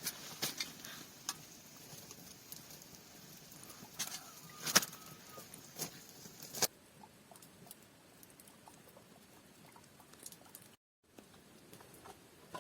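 Scattered light clicks and taps of camp cooking gear being handled, with one sharper knock about five seconds in.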